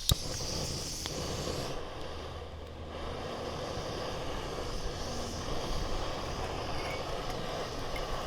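A steady, distant engine drone over outdoor background noise, with a single sharp click right at the start.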